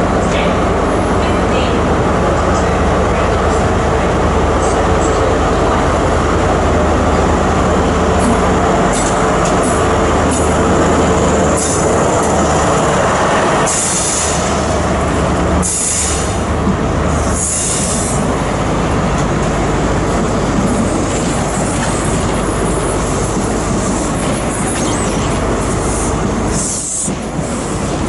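Train moving along the track with a loud, steady running noise and low hum, and several short high-pitched wheel squeals, clustered around the middle and again near the end.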